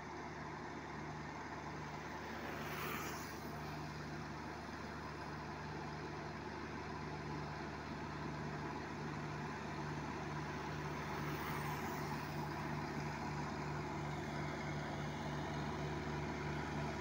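Mahindra Arjun 555 tractor's diesel engine running steadily with a low, even hum, slowly growing louder. It is broken by a brief whoosh about three seconds in and again about eleven seconds in.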